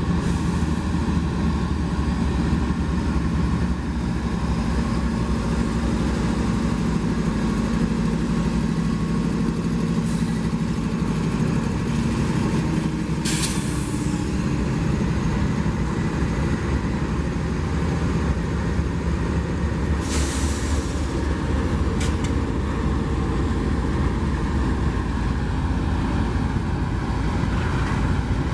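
Diesel-hauled train rumbling steadily past, its locomotive engines running low, with a few short hissing bursts, one of the longer ones about halfway through.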